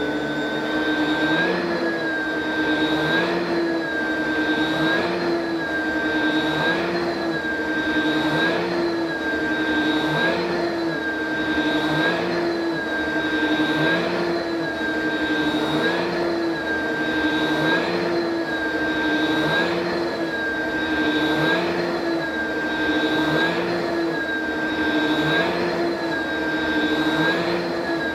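Oreck vacuum cleaner running steadily, its motor whine dipping slightly in pitch and recovering about every two seconds.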